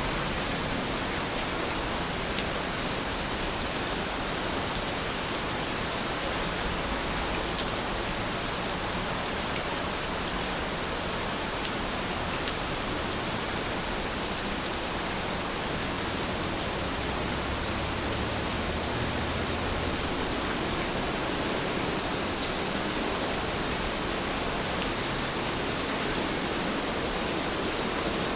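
Steady rain falling, an even hiss with a few faint, scattered drop ticks.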